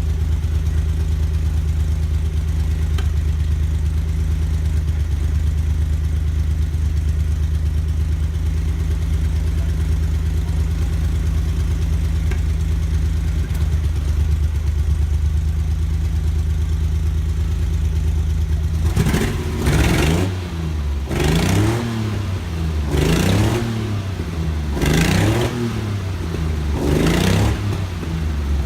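Freshly rebuilt 1976 Maserati Merak V6 engine running for the first time: it idles steadily, then about two-thirds of the way through it is revved in short blips roughly every two seconds, the pitch rising and falling each time.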